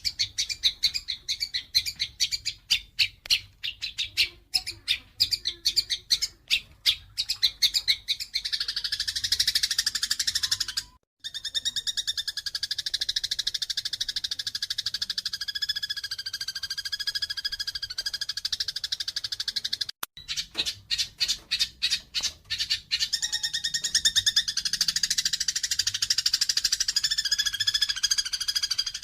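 Eurasian tree sparrows chirping in quick separate notes that run together into continuous excited chattering, the calls of sparrows fighting. The sound drops out briefly twice, at about 11 and 20 seconds in, each time starting again with separate chirps.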